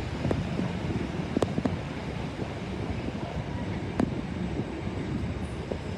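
Strong wind buffeting the microphone over the low running of a Class 387 electric multiple unit, a double pairing of 387s, with a few sharp clicks.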